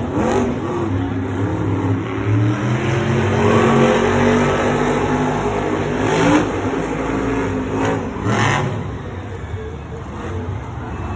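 Monster truck engines running at full throttle during a race, revving up and down in pitch. Two short sharp noises come about six and eight and a half seconds in.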